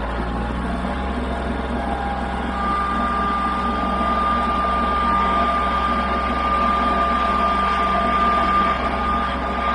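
Small engine running steadily just after being started, with a low even hum. A steady high whine joins a few seconds in.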